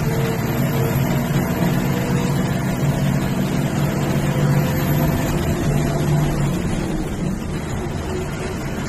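Bus engine running steadily under road noise, its hum easing off about six and a half seconds in.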